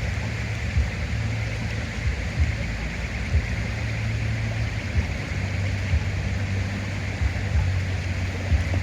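Steady rushing of a river, with a fluctuating low rumble of wind on the microphone.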